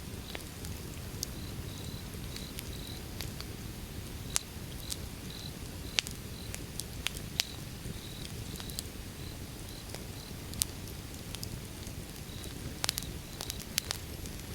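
Wood fire crackling, with irregular sharp pops over a steady low rumble; a few louder pops come in a cluster near the end. A cricket chirps in short repeated pulses throughout.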